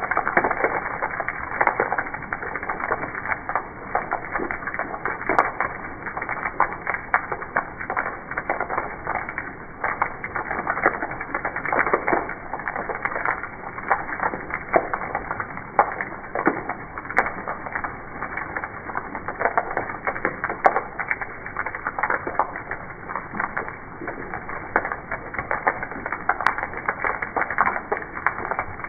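Rain pattering on wooden steps: a dense, irregular stream of small drop impacts on the boards, steady throughout.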